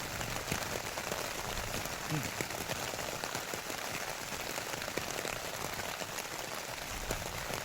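Heavy rain pattering steadily on tent fabric, a dense run of drop ticks.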